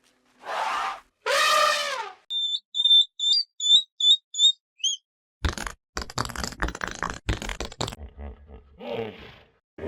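A quick succession of different animal sounds: two short pitched calls, then a run of short high squeaks, then a stretch of rough grunting and rattling, and one more short call near the end.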